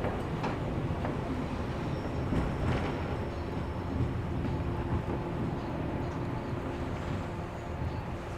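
Running noise inside a 113 series 1500 resistance-controlled electric train as it nears its terminal: a steady rumble of wheels on rail with scattered sharp clicks from rail joints and points.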